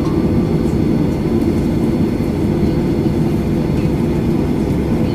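Boeing 737-800 cabin noise on the ground: a steady low rumble with a faint thin whine above it.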